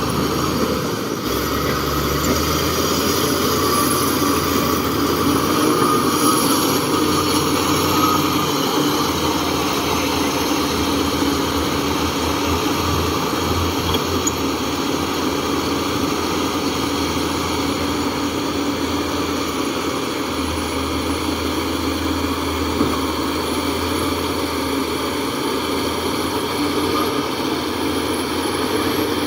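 Heavy diesel engine running steadily, a constant drone with little change in pitch.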